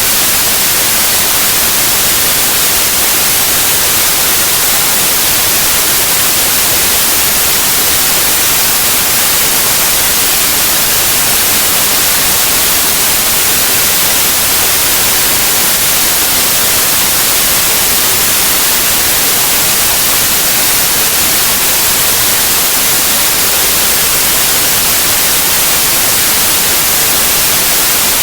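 Synthetic white noise: a loud, steady, even hiss that never changes.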